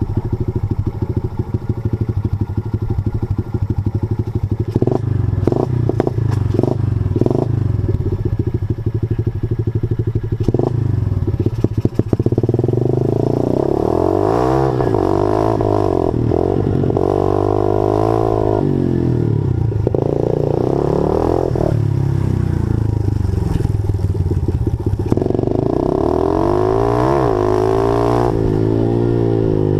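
Small single-cylinder engine of a 50cc Honda pit bike, running steadily at low revs for about the first twelve seconds. After that it revs up and down again and again as the bike is ridden around the track.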